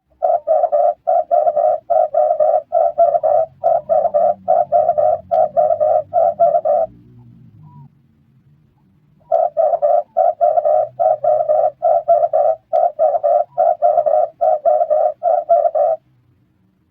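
Red turtle dove cooing: fast runs of short, evenly repeated coo notes, about three a second, in two bouts of some six seconds each with a pause of about two seconds between.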